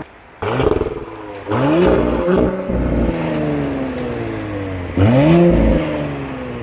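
2018 Audi SQ5's 3.0-litre V6 petrol engine and exhaust being revved three times. Each blip rises sharply in pitch, then the engine falls back slowly toward idle.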